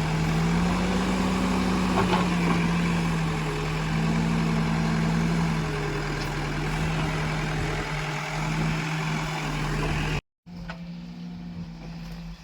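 Heavy diesel engine running steadily, its pitch lifting briefly twice as it takes load, with a couple of sharp knocks. It cuts out for an instant near the end and then carries on quieter.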